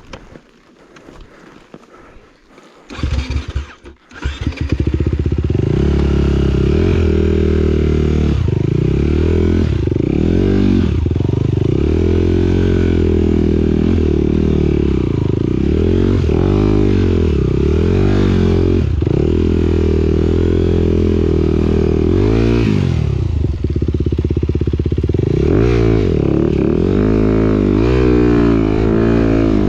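Motocross motorcycle engine starting up about four seconds in, then running loudly with the revs rising and falling over and over.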